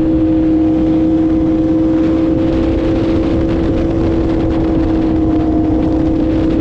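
Yamaha YZF-R1M's crossplane inline-four engine pulling at a steady cruising speed, its note holding almost level and easing slightly lower, with a rush of wind noise underneath.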